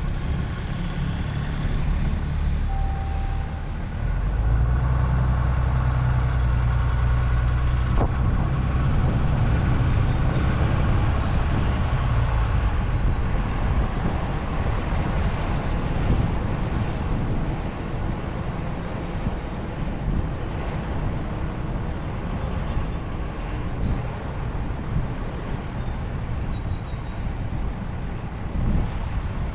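A vehicle's engine and road noise while driving, with a deeper engine drone that swells about four seconds in and eases off around twelve seconds.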